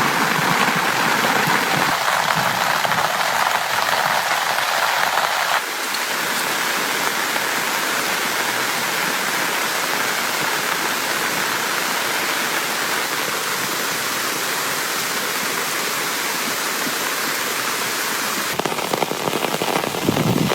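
Heavy rain falling steadily, a dense even hiss of drops; the sound changes abruptly about five and a half seconds in and again near the end.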